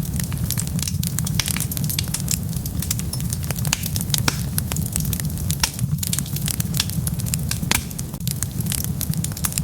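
Wood fire burning: dense, irregular crackles and pops over a steady low rumble of flames.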